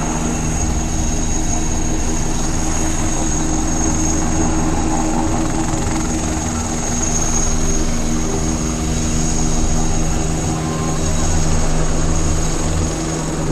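Eurocopter Tiger attack helicopter hovering: a steady rotor drone with a constant high turbine whine above it.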